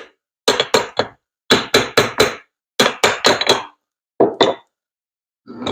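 Hammer taps on the end housing of an Autolite car starter motor, knocking the end cap loose to take the starter apart. Sharp ringing metal strikes in quick runs of three or four with short pauses between them, stopping about four and a half seconds in.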